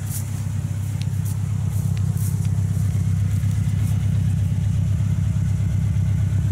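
Lada 4x4 (Niva) engine idling steadily while the car sits stuck, getting slightly louder over the first couple of seconds.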